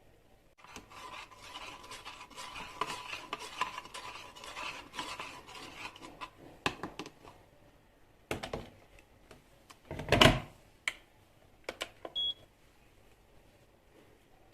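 Kitchen handling sounds. First several seconds of dense rubbing and scraping, then scattered knocks and clatters, with a heavier thud about ten seconds in. A short electronic beep comes about twelve seconds in.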